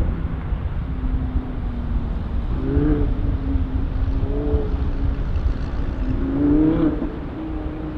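Audi R8's V10 engine running under hard acceleration, its pitch climbing in three surges over a steady low rumble.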